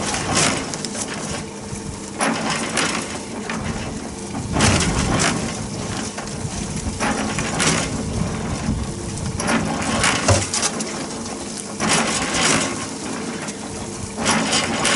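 Electric concrete mixer running, its drum churning gravel and wet concrete with a steady hum under repeated gritty crunching and rattling.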